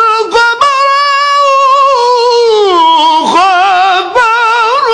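A high solo voice singing a nasheed unaccompanied, drawing out the last word of the line in long held notes with ornamented turns and wavering pitch.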